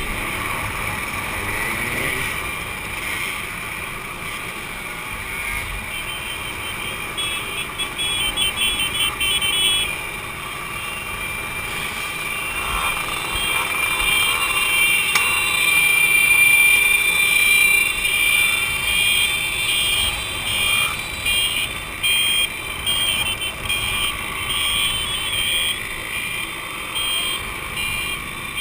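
Two-stroke motorcycle engines running, the level rising and falling and loudest a little past the middle.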